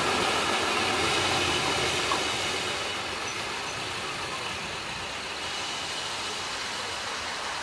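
Steam train running on the line: a steady noisy rumble of the train in motion, growing a little quieter about three seconds in.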